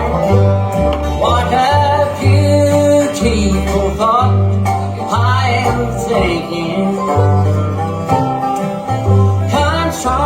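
Bluegrass band playing an instrumental passage: banjo and guitar over a steady bass line that changes note about once a second, with sliding melody notes on top.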